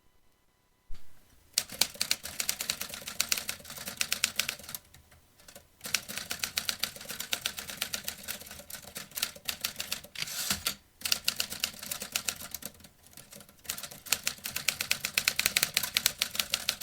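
Vintage manual typewriter being typed on in fast runs of keystrokes, many clicks a second, broken by short pauses. A single knock about a second in comes just before the typing starts.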